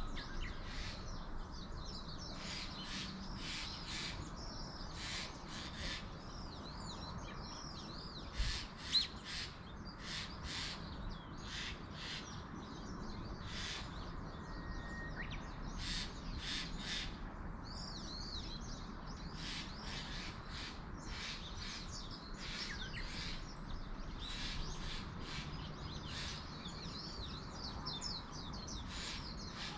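Wild birds calling throughout, many short sharp calls in quick runs, over a steady low outdoor background. About eight to nine seconds in there are two brief low knocks, the loudest sounds here.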